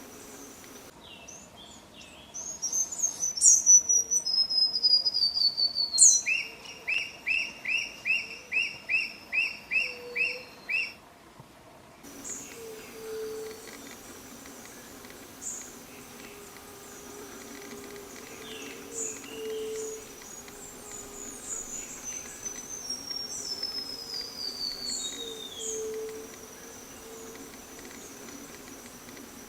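Forest birds of several kinds singing: descending whistled phrases and a run of about a dozen quick, evenly spaced notes, over a steady high insect drone with low hooting calls.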